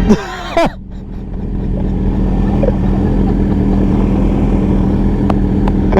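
Sportbike engine running steadily under way, growing a little louder over the first couple of seconds and then holding an even pitch, heard from the rider's own bike.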